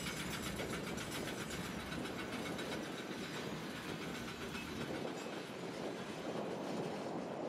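Long freight train of red open gondola wagons rolling steadily past, the steel wheels clicking over the rails in a quick, regular rhythm over a steady rumble.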